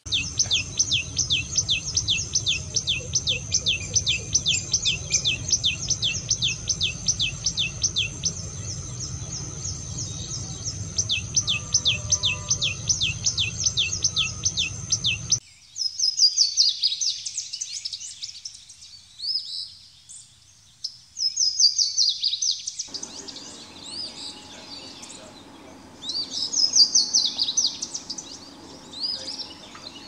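Bird calls in two parts. First, a fast, even run of high, downward-sliding notes, about four or five a second, with a short pause part-way through. Then, after a sudden cut, bursts of high chirping and warbling song separated by short pauses.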